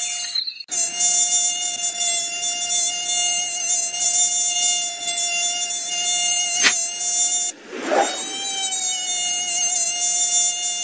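Mosquito wings whining in a steady high-pitched buzz, broken off briefly twice and wavering in pitch as it comes back the second time. A single sharp click about two-thirds of the way through.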